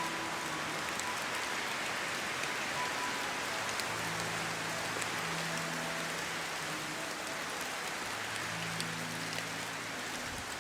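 Steady heavy rain falling on a surface, with scattered drop ticks. Faint, soft sustained music notes sit low beneath it.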